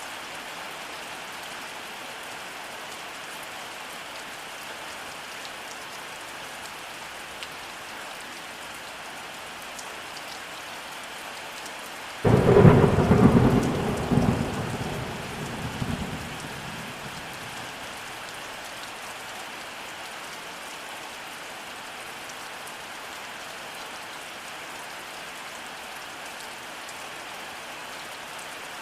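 Steady rainfall, with a sudden loud thunderclap about twelve seconds in that rumbles on and fades over four or five seconds.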